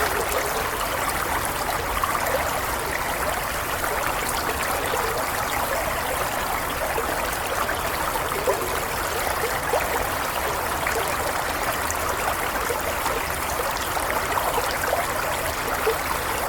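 A stream of water flowing steadily, with a constant babbling and trickling.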